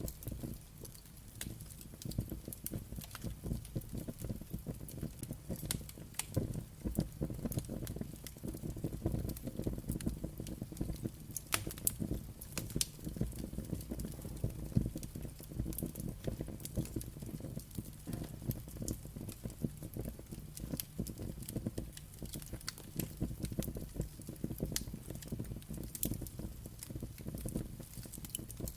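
Wood fire crackling, with many sharp pops and snaps over a low rumble of the flames.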